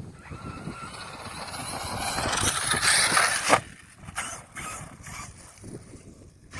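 Arrma Kraton V4 6S RC monster truck running on its stock brushless system: motor whine and tyre noise that build steadily for about three seconds, then cut off abruptly, followed by quieter scattered rattling and crunching.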